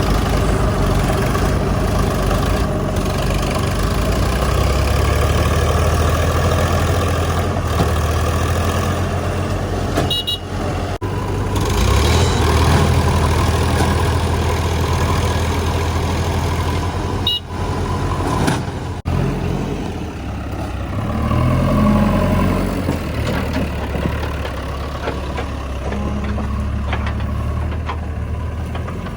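Heavy diesel engine running steadily, its revs rising and falling at times, with a few abrupt breaks.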